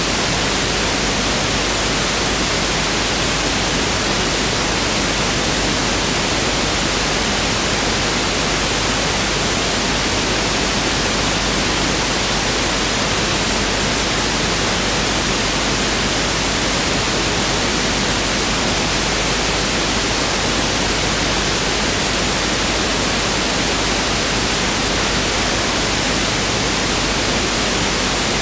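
Pink noise test signal (1/f noise): a steady, even hiss that does not change.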